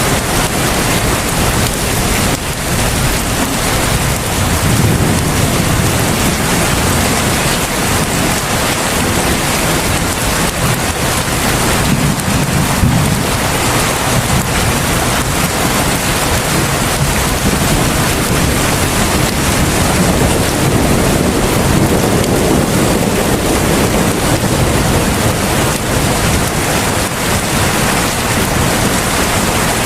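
Heavy rain falling steadily, a dense, even hiss, with a low rumble swelling now and then beneath it.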